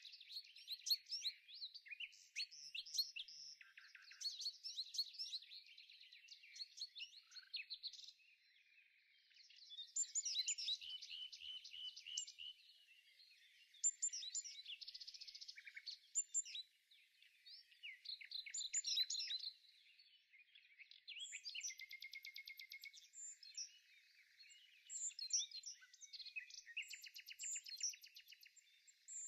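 Songbirds chirping and singing, several calling over one another, with short chirps and fast trills of quickly repeated notes.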